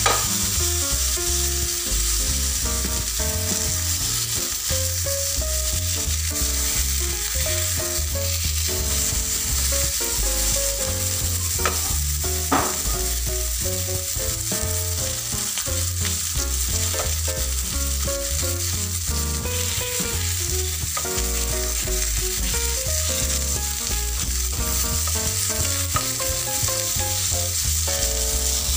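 Tanigue (Spanish mackerel) steaks searing in olive oil on a hot grill pan, a steady sizzle, with a couple of sharp clicks about twelve seconds in.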